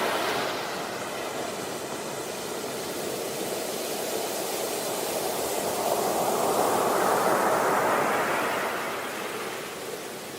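Sea waves washing onto a beach: a steady rush of surf that swells to a peak about two-thirds of the way through, then eases off.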